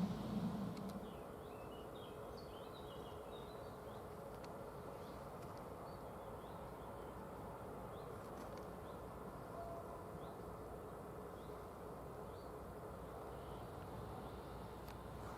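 Quiet outdoor ambience: faint, scattered bird chirps over a steady low hum. A low rumble dies away in the first second.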